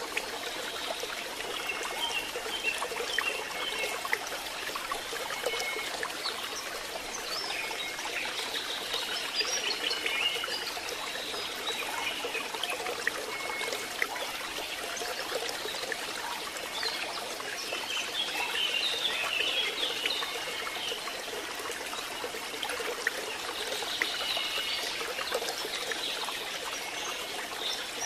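Steady rain with water trickling and pouring, and faint high chirps now and then.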